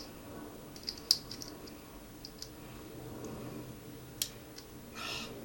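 Bracelet being handled and fastened on a wrist: scattered small clicks and rattles of its clasp, with a sharper click about a second in and another about four seconds in.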